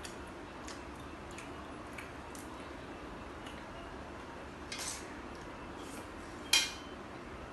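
Scattered light clicks and taps of a meal being eaten from a plate, with one sharper clink of dish or utensil about six and a half seconds in, over a steady low background hum.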